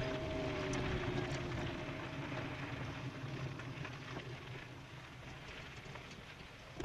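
E-bike riding fast downhill: wind rushing over the microphone and tyre noise, with a faint hum that slides down in pitch. The whole sound fades steadily as the bike slows from around 28 mph.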